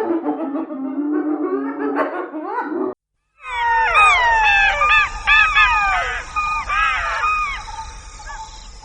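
A low, steady sound with a constant pitch cuts off abruptly about three seconds in. After a short gap, a pack of wild canids breaks into a chorus of overlapping yips and falling howls, which fade toward the end.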